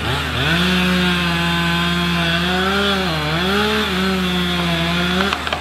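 Chainsaw running at full throttle as it cuts into a stubborn tree. Its pitch dips briefly about three seconds in, then it stops shortly before the end. A steady low engine hum sits underneath.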